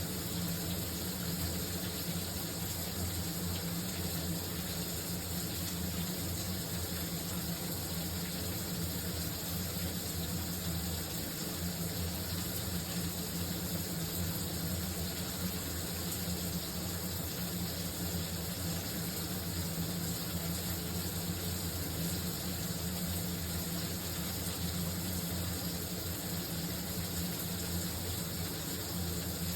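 Shower running: a steady spray of water falling without change.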